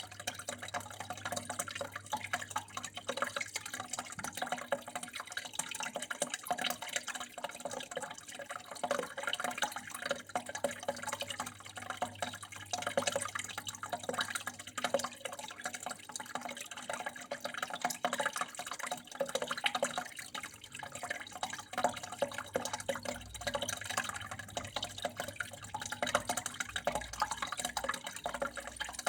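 Flowing water trickling and splashing steadily, made up of many small irregular drips.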